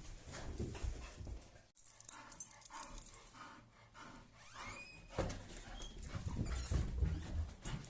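English bull terrier whining, with one rising-and-falling whine about halfway through amid light knocks and shuffling.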